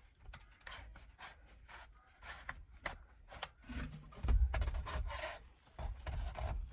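Vent pipe fittings being handled and worked together: irregular rubbing and scraping strokes as a 45-degree elbow is fitted onto the vent pipe. The handling grows heavier and louder from about four seconds in.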